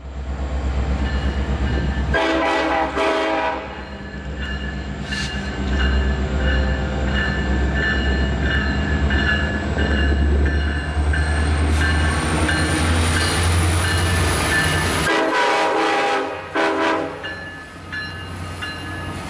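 Diesel locomotive running under heavy power with a steady low engine rumble, sounding its horn about two seconds in and again near the end, the second time as a long blast and a short one.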